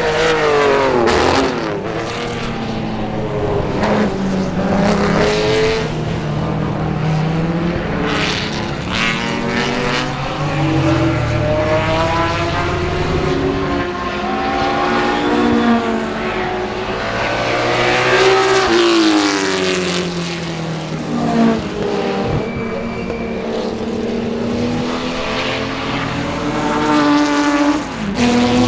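Ferrari 250 V12 race cars at full racing speed. Several pass one after another, each engine note sweeping down in pitch as it goes by, and the revs climb and fall between the passes.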